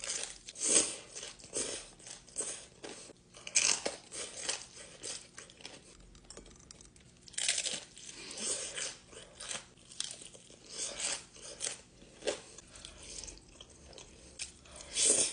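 Close-up chewing and crunching of crispy-skinned fried chicken, irregular bites and chews with a few louder crunches.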